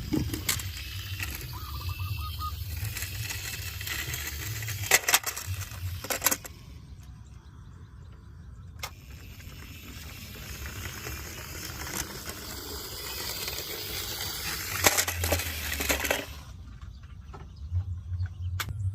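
A few sharp clicks and clinks of small metal toys being handled, over a steady hiss and low rumble.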